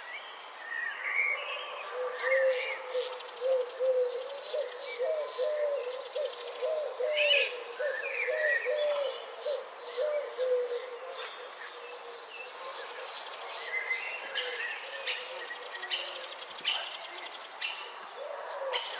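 Chorus of insects or crickets trilling steadily at a high pitch, mixed with scattered bird chirps. In the first half a run of short, low, hooked calls repeats quickly, several a second; the insect trill cuts out near the end.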